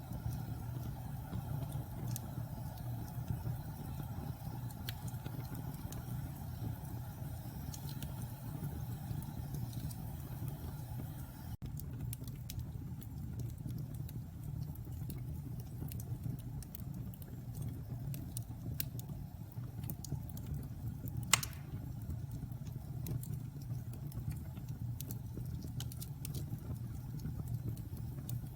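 Wood logs burning in a fireplace: a steady low rumble of the flames with scattered small crackles and one louder sharp pop about two-thirds of the way through.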